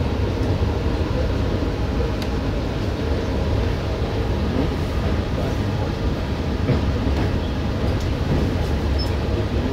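Passenger train coach rolling slowly across a steel truss railway bridge, heard from inside the carriage: a steady low running rumble of wheels on rail with an occasional faint click.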